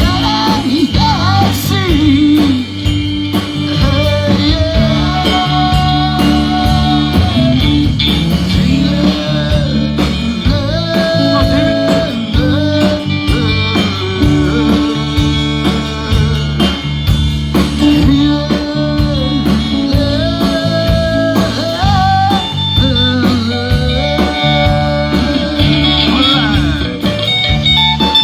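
Live band playing a blues-rock number, with a lead guitar line over the band.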